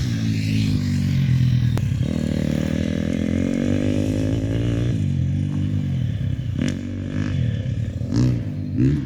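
Motocross bike engine on the track, its pitch climbing and dropping several times as the rider opens and closes the throttle.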